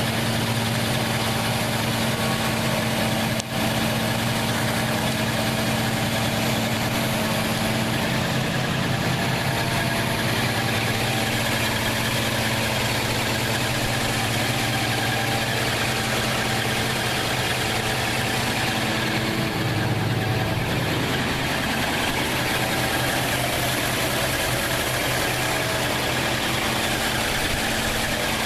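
1968 Plymouth Fury's 383 big-block V8 idling steadily, running again after years out of action.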